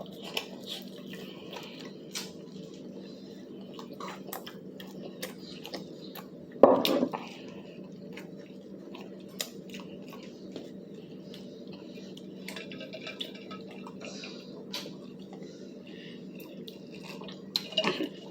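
Close-up chewing of crispy fried chicken, with scattered small smacks and clicks over a steady low hum. One louder short sound comes about seven seconds in.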